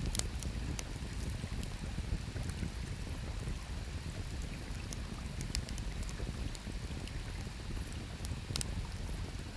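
Burning firewood crackling in a campfire: sparse sharp pops, a few right at the start, a pair midway and a bright one near the end, over a steady low rush.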